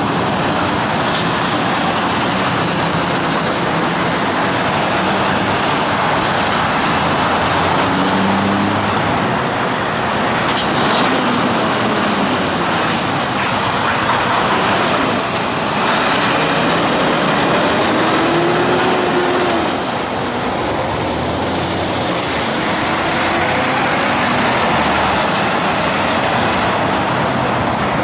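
Steady highway traffic noise from big rigs and cars passing at speed: continuous tyre and engine noise, with truck engine tones sliding in pitch as vehicles go by.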